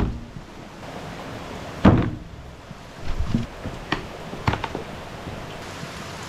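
Steady rain noise with several dull thumps and knocks: a loud one at the start, another about two seconds in, then a cluster of lighter knocks and clicks.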